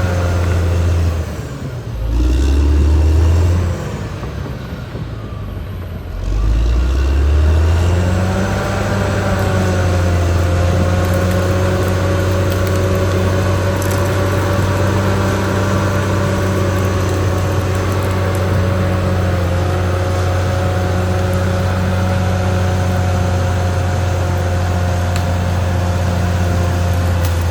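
Caterpillar D6R XL bulldozer's diesel engine running under load. It eases off and picks up again twice in the first eight seconds, then holds a steady note.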